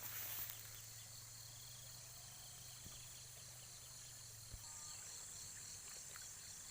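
Faint, steady high-pitched chorus of insects. A low hum sits underneath and stops about two-thirds of the way through.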